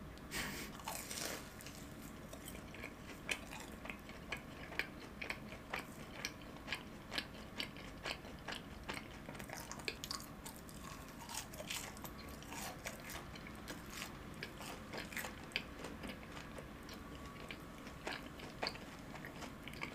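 Close-miked chewing of a deep-fried cheese ball: an irregular run of small crisp crunches and wet mouth clicks.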